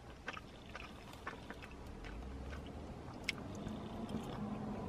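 Quiet chewing of fried chicken, with scattered small mouth clicks; the sharpest click comes a little past the middle.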